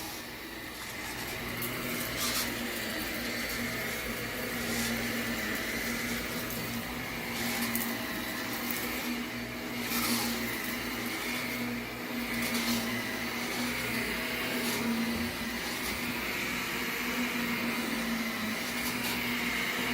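Vacuum cleaner running with a steady motor hum and whine, with a few short clicks or knocks along the way.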